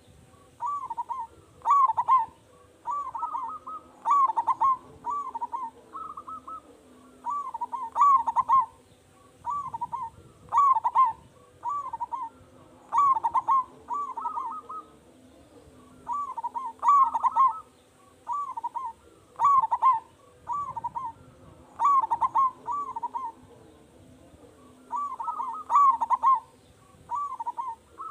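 Zebra dove (perkutut) cooing over and over: a loud phrase of quick, rolling coos about every two to three seconds.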